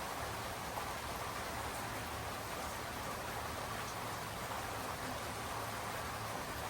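Steady rain falling, an even hiss of drops that keeps the same level throughout, with a couple of faint single drip ticks.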